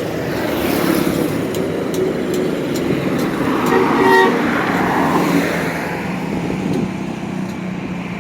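Traffic passing on a highway, with a bus going by at speed; a horn sounds briefly about four seconds in.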